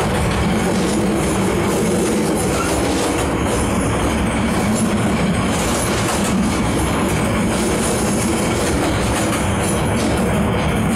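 Steady running noise of a moving train, heard from inside a passenger carriage.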